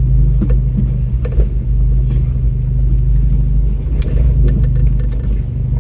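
Off-road truck's engine running steadily with a low rumble, with scattered light clicks and creaks over it.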